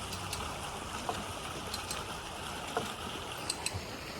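Steady rush of flowing water, with a few light clicks and knocks scattered through it.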